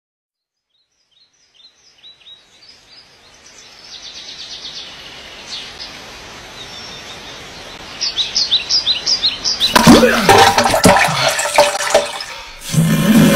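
Small birds chirping in short repeated calls, growing busier. About ten seconds in, a loud rushing noise takes over and drowns them.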